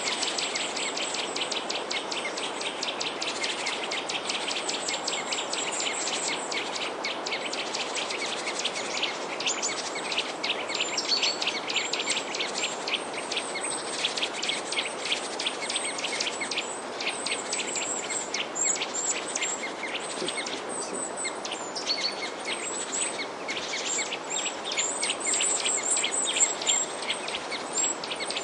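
Many small birds chirping at once, a dense, fast, overlapping chorus of high chirps, over a steady background hiss.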